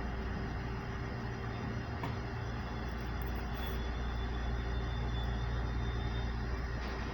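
Sangi Railway 5000 series electric train standing with its doors open: a steady low hum from the train's idling onboard equipment.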